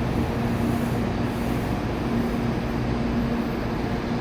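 Shinkansen train running, heard as a steady rushing noise with a constant low hum.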